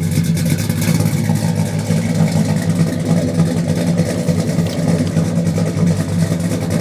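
Small-block 383 stroker V8 idling steadily through dual Flowmaster mufflers, a loud even exhaust note with no revving.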